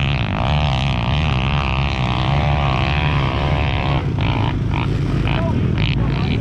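Pit bike engine running under throttle, its pitch rising and falling as the revs change.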